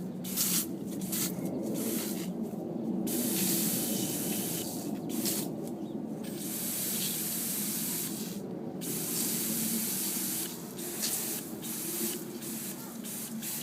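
Water spraying with a hissing rush that breaks off briefly and comes back many times, while a puppy plays in it.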